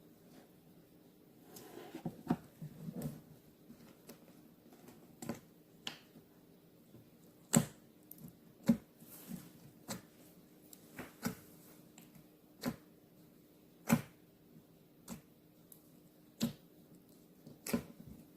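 Handmade slime being played with by hand: sharp clicking pops at irregular intervals, with a run of softer squishing near the start.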